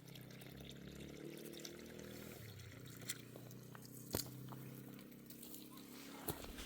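Faint irrigation water running and pouring into vegetable beds, with a few sharp clicks, the loudest about four seconds in.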